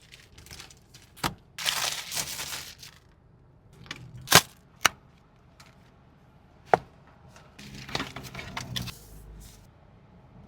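A handful of sharp clicks and snaps, spaced a few seconds apart, with two short stretches of rustling, about two seconds in and again near the end.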